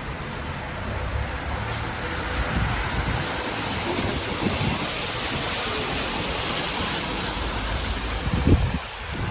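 A car passing along the street, its tyre noise swelling and fading, with wind rumbling on the microphone and a low thump near the end.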